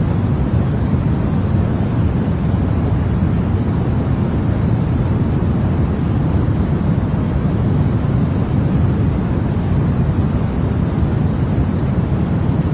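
Continuous white noise for baby sleep, steady and unchanging, with most of its energy low so that it sounds like a deep, even rush.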